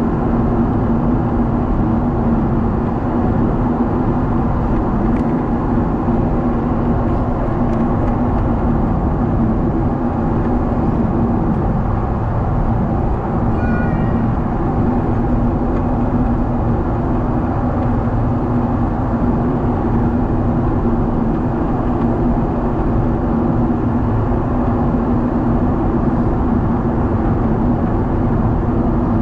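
Steady cabin noise heard inside a Boeing 777 in flight: the jet engines' drone with a constant low hum and rushing air. A brief high-pitched sound cuts through once, about halfway through.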